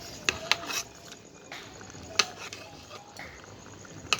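Sharp clinks and knocks of cookware: a quick run of three about half a second in, one more near the middle, and one at the end.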